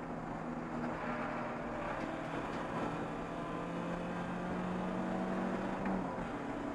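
Race car engine heard from inside the stripped, roll-caged cockpit, running under load with a steady note that climbs slowly in pitch as the car accelerates. About six seconds in, the note drops away abruptly.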